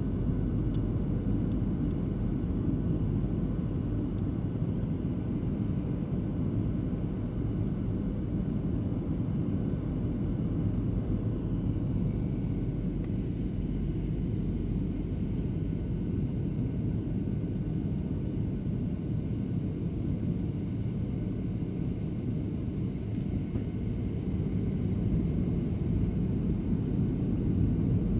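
Airliner cabin noise during the descent: a steady engine and airflow rumble, with a faint high whine that drops slightly in pitch about eleven seconds in.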